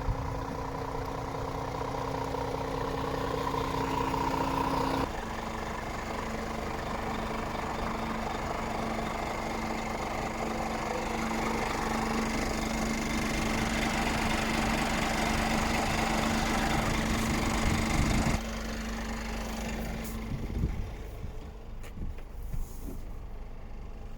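Scania R450 truck's 13-litre inline-six diesel engine idling steadily, its note changing abruptly twice as the shot changes. In the last few seconds it drops quieter, with a few sharp knocks.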